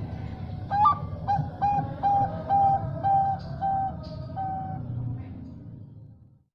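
Bangkok-strain zebra dove (perkutut) singing: a high, rising opening note followed by a run of about seven short, even cooing notes, over a steady low background noise that fades out near the end.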